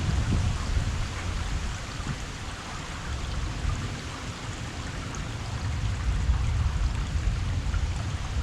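Heavy rain falling steadily, a dense even hiss of drops with a low, uneven rumble underneath.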